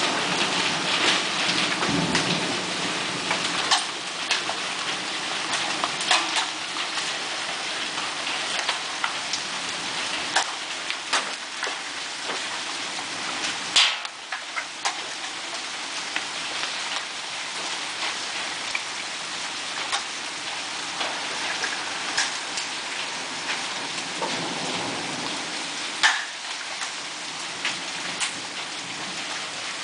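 Hail and rain pelting down in a hail storm, a dense steady hiss with many sharp separate clicks of hailstones striking hard surfaces. It is heaviest in the first few seconds and eases slightly after.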